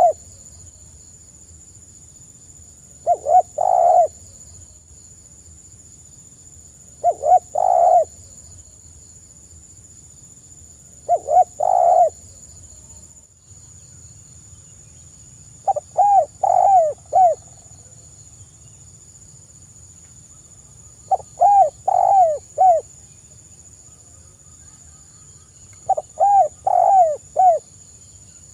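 Spotted dove cooing: a short phrase of low coo notes, repeated about every four to five seconds. From about halfway on, each phrase breaks into four or five distinct rising-and-falling notes. A faint steady high-pitched hiss runs underneath.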